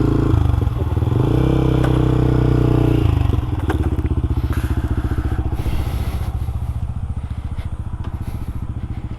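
Motorcycle engine running at low trail speed, revving higher for a couple of seconds near the start, then settling to a lower, steadier beat, with a few knocks and clatter from the rough ground.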